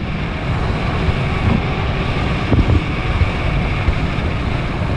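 Steady wind buffeting the microphone of a rider moving fast on an electric bike at its top pedal-assist level.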